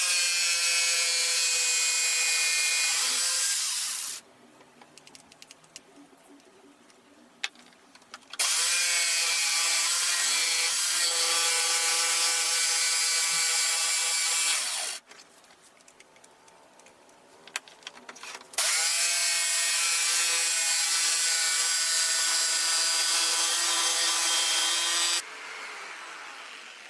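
Jigsaw cutting a 6 mm acrylic sheet along a cut line taped and lubricated with oil and candle wax, in three runs of several seconds each with short pauses between. The motor's whine holds a steady pitch through each run, and the last run fades out near the end.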